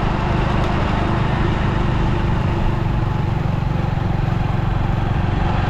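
Hero Honda Splendor Plus motorcycle's small single-cylinder four-stroke engine running steadily while riding, a fast even putter under a steady rush of noise.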